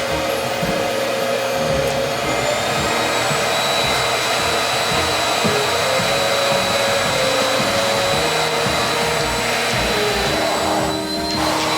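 Neabot P1 Pro pet grooming vacuum running steadily, a loud airflow hiss with a thin high whine, dipping briefly near the end.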